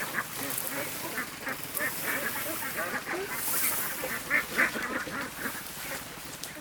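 A flock of ducks quacking and calling over one another in a continuous chatter, with a couple of louder calls about four and a half seconds in.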